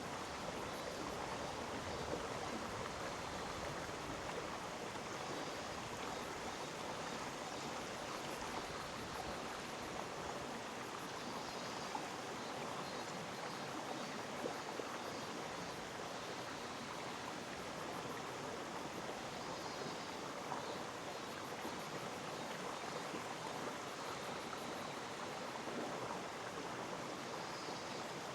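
Mountain stream in a gorge flowing steadily: an even, unbroken rush of water.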